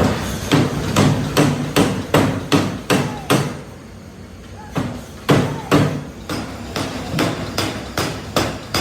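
Hand hammer striking metal in a steady run of blows, about two and a half a second, each with a short ring. The blows pause for a moment midway, then carry on.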